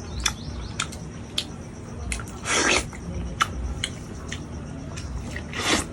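A person eating close to the microphone: wet chewing and lip smacks heard as a string of sharp clicks, with two longer, louder slurps, one about two and a half seconds in and one near the end.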